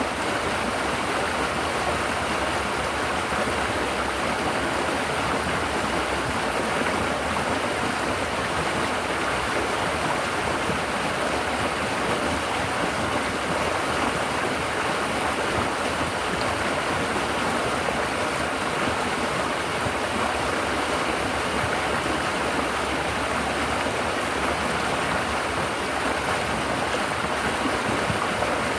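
River water flowing and burbling over rocks and against the bank, a steady, unbroken rush.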